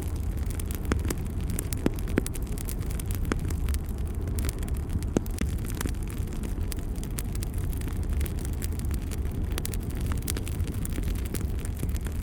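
Fireplace fire burning with a steady low rumble, sharp crackles and pops scattered irregularly through it.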